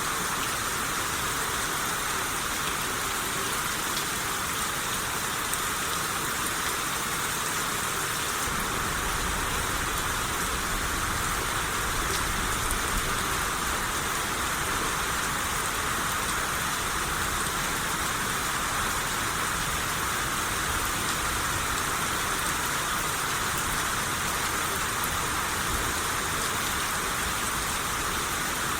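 Steady rain shower falling, a dense, even patter of drops on surfaces. A low rumble comes in underneath about a third of the way through.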